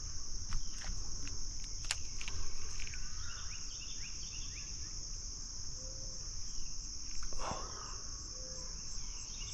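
A steady, high-pitched insect chorus trilling without a break, with a few light clicks in the first couple of seconds and short faint chirps over it.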